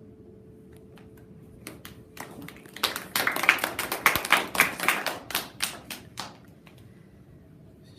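A small group clapping: scattered claps about two seconds in, quickly becoming a brief round of applause that thins out and stops a couple of seconds before the end.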